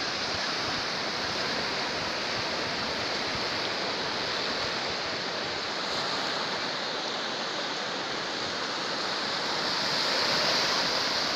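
Strong Baltic Sea surf breaking on the shore: a steady wash of waves that grows a little louder about ten seconds in.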